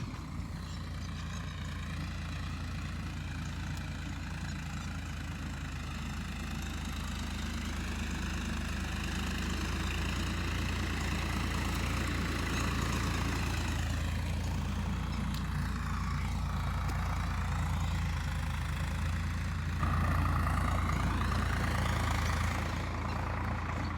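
Diesel farm tractor engine running steadily while dragging soil. It slowly grows louder, with a louder stretch about twenty seconds in.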